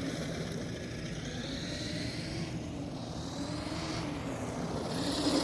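Brushed electric motor and drivetrain of a Traxxas Rustler RC truck whining as it is driven, the pitch rising and falling with the throttle. Near the end the whine grows louder and sweeps up then down as the truck speeds past.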